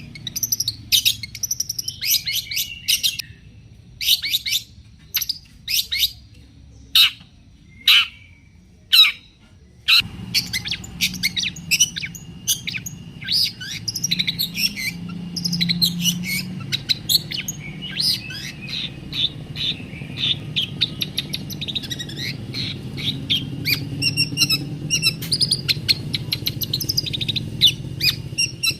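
Long-tailed shrike (cendet) singing: sharp, spaced calls for about ten seconds, then a fast, unbroken chattering run of notes. A low hum comes in at the same moment as the chattering.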